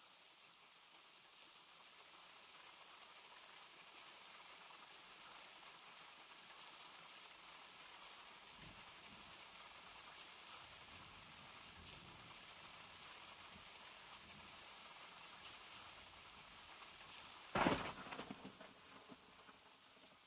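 Steady rain falling, with faint low rumbles in the middle. Near the end comes a sudden loud crack of thunder, which dies away over a couple of seconds.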